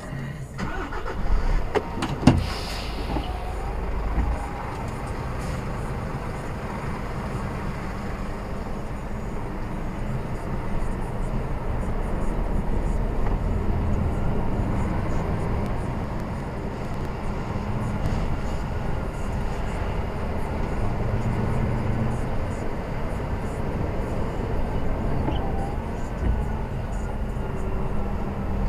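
Lorry engine running steadily on the move, with road noise. A few sharp knocks come about one to two seconds in.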